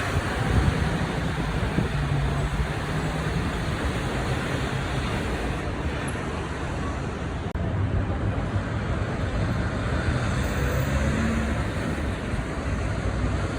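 Steady road traffic noise from vehicles passing below, with the low hum of engines that swells in the first few seconds and again from about eight seconds in.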